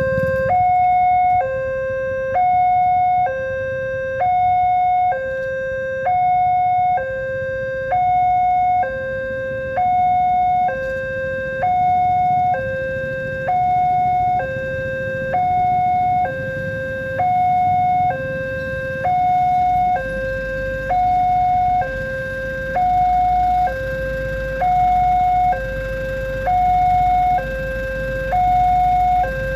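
Electronic two-tone warning alarm of a railway level crossing, alternating steadily between a lower and a higher tone about once a second, which signals that a train is approaching and the barriers are down. A low rumble runs underneath, and a steady low hum joins about two-thirds of the way through.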